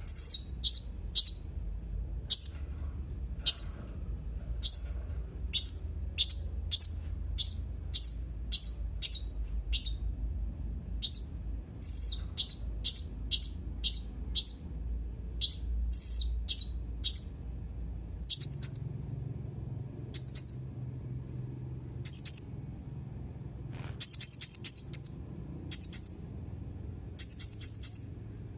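Blue-crowned hanging parrot (serindit) giving short, shrill, high-pitched chirps, about one or two a second, sometimes in quick runs of three or four, over a faint low hum.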